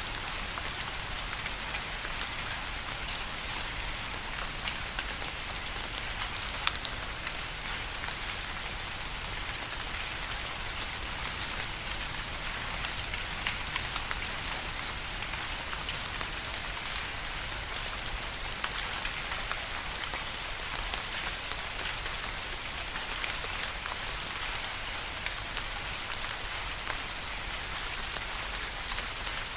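Steady rain falling on a surface: an even hiss thick with the close ticks and patter of individual drops.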